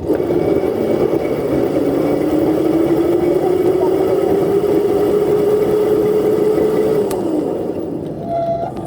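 Dirt bike engine pulling under throttle, its pitch climbing steadily for several seconds, then falling off near the end as the throttle is eased.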